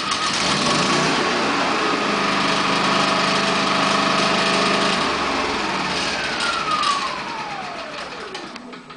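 Champion portable generator engine running on fuel from a remote tank through the extended run time kit, freshly started. About six seconds in it is shut off and winds down, its whine falling in pitch and fading until it stops near the end.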